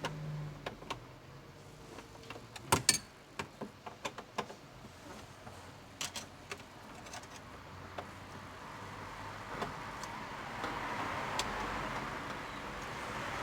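Scattered clicks and knocks of hand tools and plastic trim being handled while a car dashboard is taken apart. The sharpest pair comes about three seconds in, and a soft rushing noise builds over the last few seconds.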